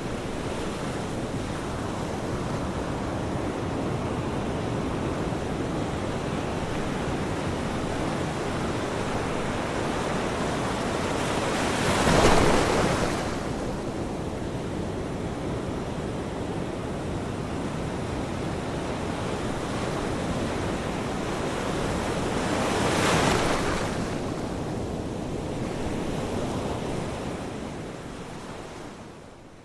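Ocean waves washing on a shore in a steady wash, with two louder waves swelling and breaking, one near the middle and one about two-thirds through. The sound dips away briefly at the very end.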